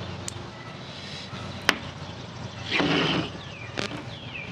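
A utility knife working on the thick insulation of 2 AWG marine battery cable to strip it: a few sharp clicks and a short scraping cut about three seconds in.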